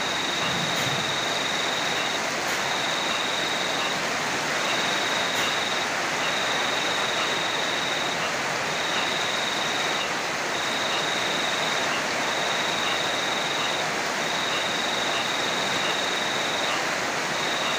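Steady heavy rain falling. Over it a high, thin trill sounds in repeated bursts of one to two seconds with short breaks between them.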